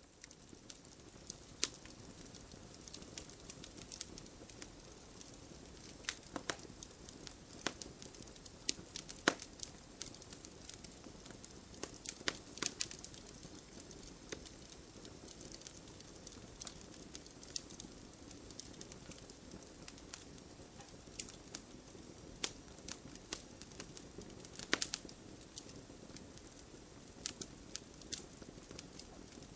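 Fireplace wood fire crackling: irregular sharp pops and snaps over a steady soft hiss of burning.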